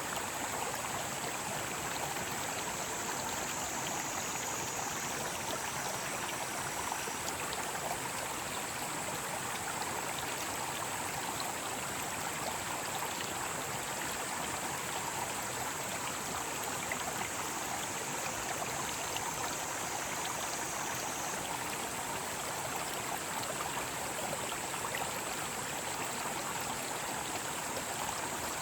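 Mountain stream rushing steadily over rocks, with a chorus of cicadas as a steady high drone above the water.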